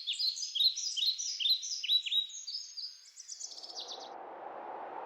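Birds chirping in a quick run of short repeated high notes, stopping about four seconds in. A steady rush of wind fades in just after three seconds and carries on.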